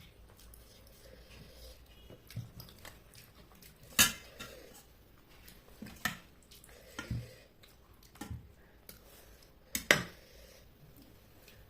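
Clinks and scrapes of eating from a dinner plate, with a few sharp knocks against the plate. The loudest come about four seconds in and again near the end.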